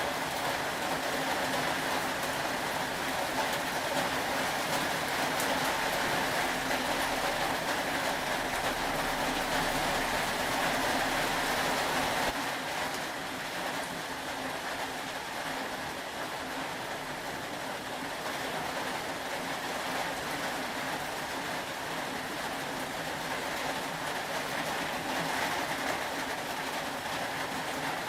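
Steady rain, an even hiss of falling water with no distinct single drops; it gets a little quieter about twelve seconds in.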